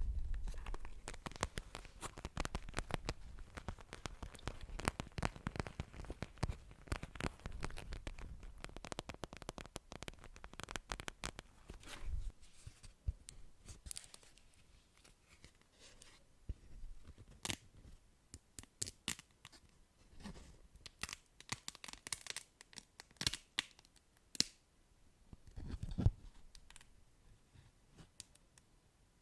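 Close-miked ASMR trigger sounds: a dense run of crackling, scratching clicks for about twelve seconds, then scattered, sparser clicks.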